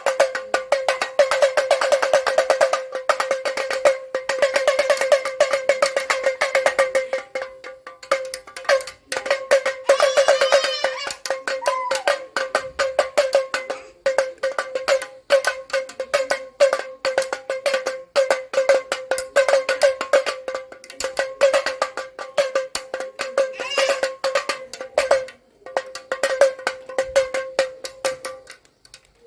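A damaru (damroo) hand drum being twisted back and forth, its beads striking the heads in fast rattling strokes that ring at one steady pitch, coming in bursts with a few brief pauses.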